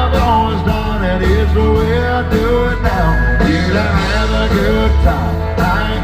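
Live country band music with drums keeping a steady beat, a deep bass line and a gliding lead melody on top.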